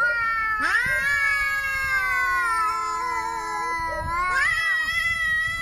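Angry cat yowling: long, drawn-out pitched wails. One is held from about half a second in to about four seconds, and another rises in just after it and carries on past the end.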